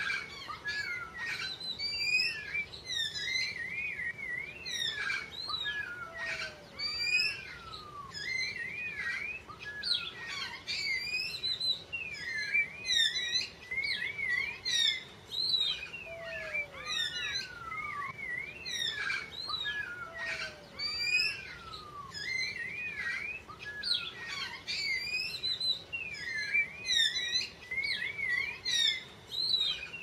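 Birds chirping and whistling, many short rising and falling calls overlapping without a break. A lower, downward-sliding call comes back every several seconds.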